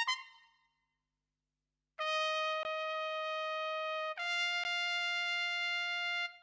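Sampled trumpet from the Fable Sounds Broadway Lites library: a quick run of short notes dies away at the start, then after about a second and a half of silence come two long held notes, the second a step higher than the first.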